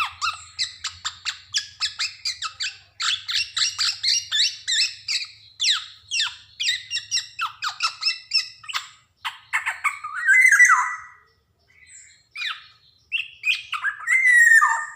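Black-naped oriole (kepodang) calling. It gives a fast run of harsh, scratchy downslurred notes for several seconds, then a few scattered notes and two louder whistled slurring notes, one near the middle and one near the end.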